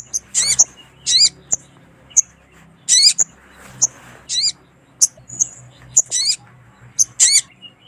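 Sogon (sogok ontong) sunbirds calling: short, sharp, high chirps about twice a second, broken by louder warbled phrases every second or so. This is a lure call, a female calling to draw a male.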